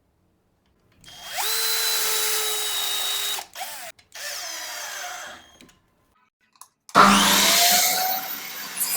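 Electric power drill running in short bursts, spinning up to a steady whine and stopping. There is a two-second run, a shorter, quieter one, and after a pause a louder run that spins up near the end.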